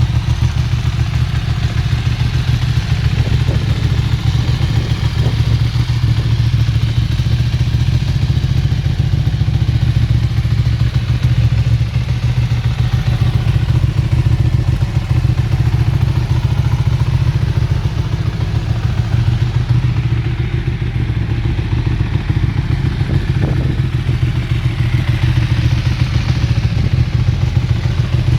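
Ducati 1299 Panigale's 1285 cc Superquadro L-twin engine idling steadily, a dense low beat of firing pulses.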